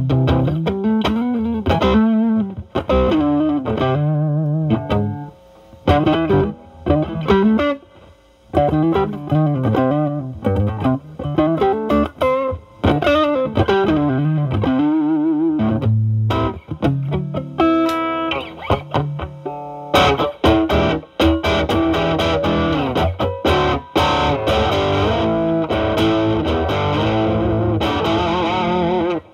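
Electric guitar, a Stratocaster through a Klon-style overdrive pedal into a Marshall Valvestate amp, in a lightly overdriven tone. It plays bluesy single-note licks with string bends, then turns to denser, brighter chord playing about twenty seconds in.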